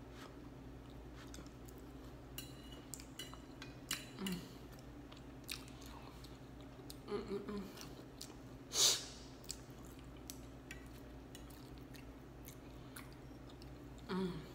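Close-miked chewing and mouth sounds of a woman eating cheesy chicken pot pie, with scattered wet clicks and smacks. Two short low hums come a few seconds apart, and a single louder sharp burst follows about nine seconds in.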